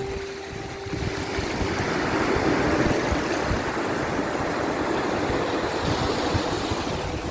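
Sea waves washing on a shore: a steady rush that swells a little a couple of seconds in, with a few faint held tones underneath.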